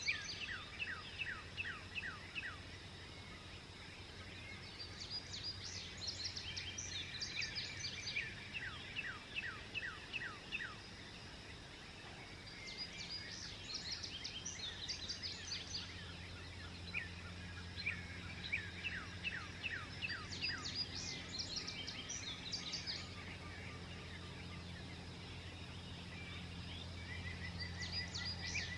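Songbirds singing at dawn: phrases of quick, downward-sweeping notes come every few seconds, some overlapping, over a steady low hum.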